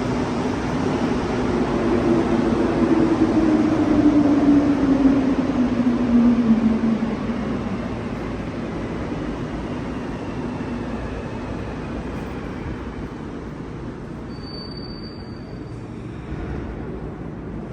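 Montreal Metro train running through the station. Its rumble swells and then fades, with a motor tone that falls in pitch during the loudest few seconds, leaving a steady hum. A short high beep sounds about fifteen seconds in.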